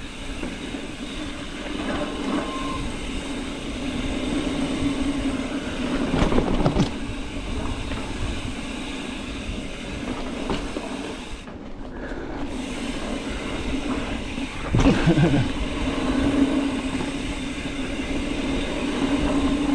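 Mountain bike riding over a rooty dirt trail: the tyres rumble and the bike rattles, with sharp knocks as the wheels hit roots, the biggest about a third of the way in and again about three quarters through.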